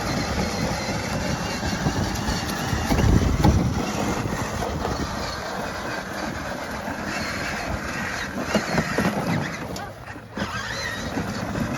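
A Power Wheels Grave Digger ride-on toy truck driving, its electric drive motors running on a DeWalt 20V battery adapter, a steady rough rumble that gets louder about three seconds in.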